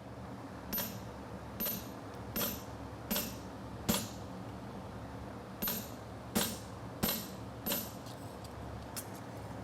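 Farrier's hand hammer striking a steel bar shoe on the anvil while forging: five even blows about three-quarters of a second apart, a short pause, then four more, with two light taps near the end. A steady low fan hum runs underneath.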